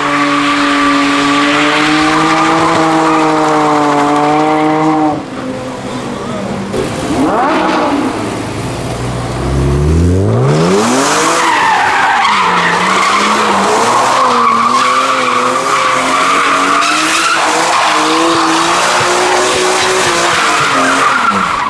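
Cars drifting: an engine held high in the revs, wavering, over squealing tyres, dropping away about five seconds in. Then another engine revs up sharply and holds high, wavering, over a continuous tyre squeal.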